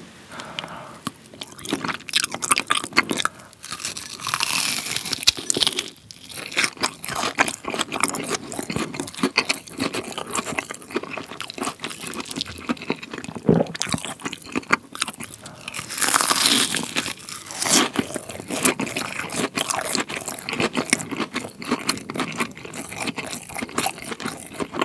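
Close-miked crunching and chewing of a cheese pork cutlet (cheese donkatsu), its crisp fried breadcrumb crust crackling between the teeth. Louder bites come about four seconds in and again around sixteen seconds.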